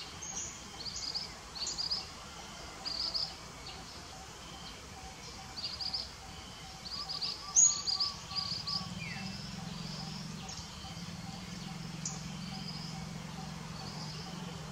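Small birds chirping in quick clusters of short high notes through the first eight seconds or so. After that a low steady hum comes in and carries on to the end.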